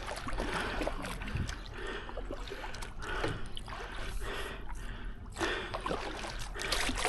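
Double-bladed kayak paddle stroking through water, alternating sides, with splashing and water running off the blades that swells with each stroke about once a second.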